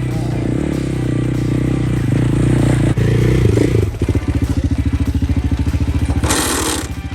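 Dual-sport motorcycle engine running steadily. About four seconds in it drops into an even, rapid chugging idle, with a short hiss near the end.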